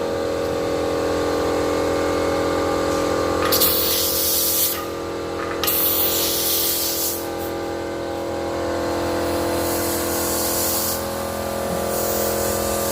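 Air hissing out of a pump pressure tank's air valve in three bursts of about a second each, as a pressure gauge is pressed onto the valve to read the tank's air charge. A steady machine hum runs underneath.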